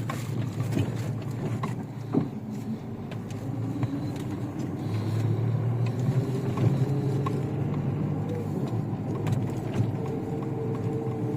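Chevrolet Niva's engine running as the SUV drives off-road, its pitch climbing a little midway and then holding steady, with scattered knocks and clicks over the top.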